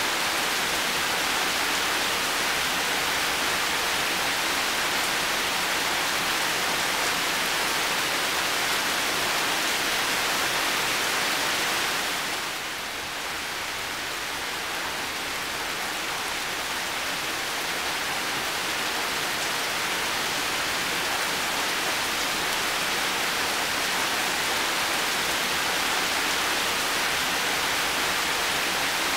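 Heavy rain falling steadily, a dense even hiss of drops. About twelve seconds in it softens briefly, then builds back to full strength.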